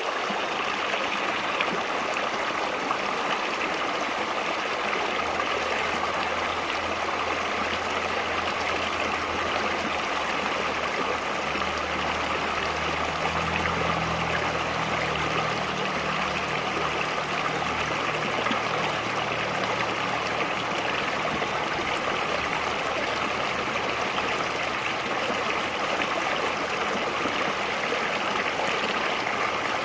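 River water flowing steadily, a continuous babbling rush with no pauses.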